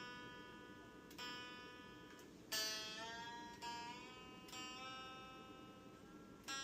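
Epiphone SG Junior electric guitar sounded one note at a time, each note ringing out and fading before the next, about one a second. About midway, a note bends slightly upward in pitch just after it is struck.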